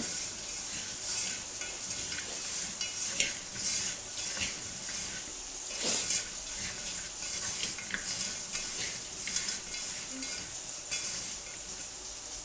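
A utensil stirring and scraping food in a cooking pot, with repeated short clinks and scrapes over a steady hiss.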